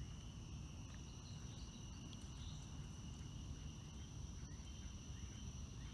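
Evening chorus of crickets and other night insects: a steady, unbroken high trill over a faint low rumble.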